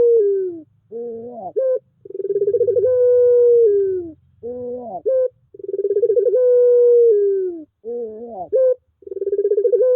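Puter pelung dove cooing its long drawn call, repeated about every three and a half seconds. Each call opens with a rolling trill, settles into a long held note that slides down at the end, and is followed by a few short notes that glide up and down.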